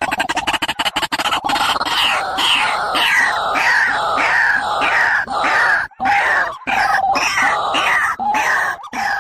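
A bird calling over and over, a short falling note about twice a second.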